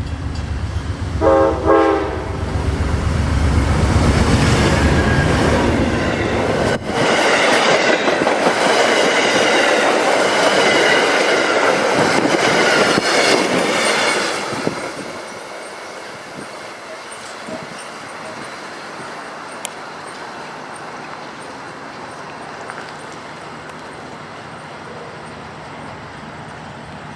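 A train horn sounds briefly about a second in over a deep locomotive rumble, then the train passes close by with loud wheel-and-rail noise and some high whining tones; the noise drops off suddenly about fourteen seconds in, leaving a quieter steady rail noise.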